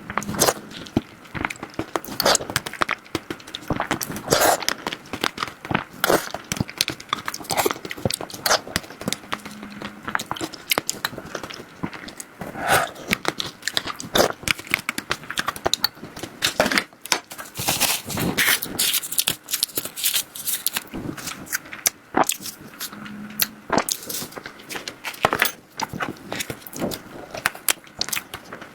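Close-miked eating sounds: a person biting and chewing desserts, with a dense run of wet clicks and crackles throughout.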